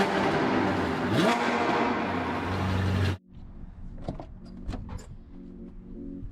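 A loud engine rev that rises in pitch and cuts off abruptly after about three seconds, followed by quieter background music with a few clicks.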